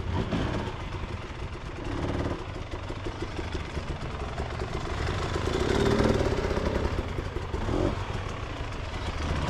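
Dirt bike engine running under riding load, its pitch rising and falling as the throttle opens and eases off, loudest about six seconds in.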